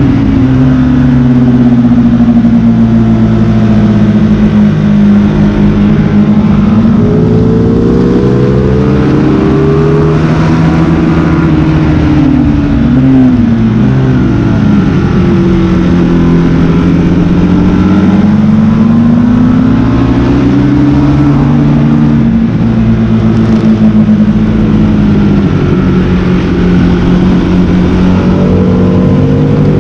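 Motorcycle engine under hard riding, its pitch climbing and dropping again and again with throttle and gear changes, over a steady rushing noise.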